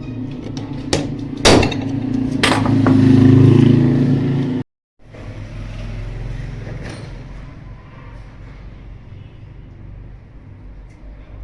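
Three sharp knocks, the loudest about a second and a half in, over a low steady hum that swells. The sound cuts out completely for a split second near the middle, then the hum carries on quieter.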